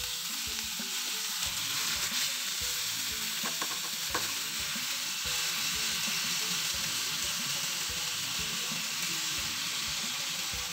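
Raw chicken pieces sizzling steadily in hot oil in a nonstick pan while a silicone spatula stirs them, with a few light clicks about four seconds in.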